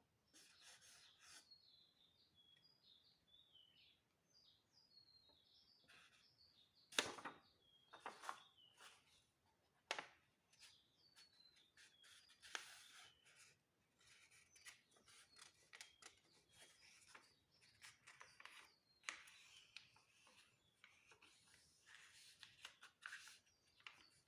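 Sheet of paper being folded and creased by hand, in short rustling, rubbing strokes, with a sharp tap about seven seconds in. Small birds chirp faintly throughout.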